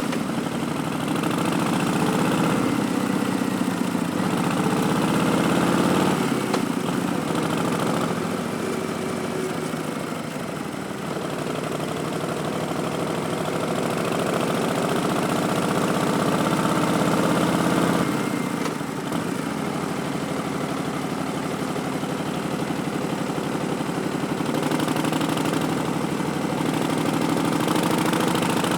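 Harley-Davidson Street Bob's Milwaukee-Eight 107 V-twin, breathing through an Arlen Ness Big Sucker intake and Vance & Hines Twin Slash slip-on mufflers, pulling under throttle while riding. The engine note climbs, drops sharply about six seconds in and again about eighteen seconds in, then climbs again.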